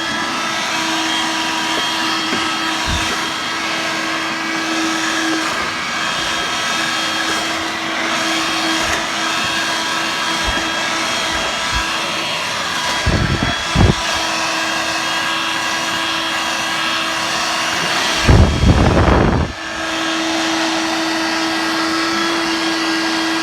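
Dirt Devil Vibe corded bagless vacuum running steadily with a constant whine, sucking up cat litter. Two short, louder rough bursts come a little past halfway and again toward the end.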